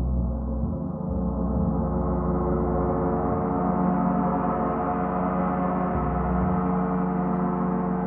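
Sustained gong wash: many overlapping steady tones ringing together with no separate strikes, growing brighter over the first few seconds.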